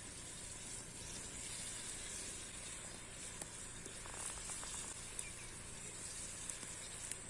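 Food sizzling as it fries in a pan: a steady hiss with a few faint crackles.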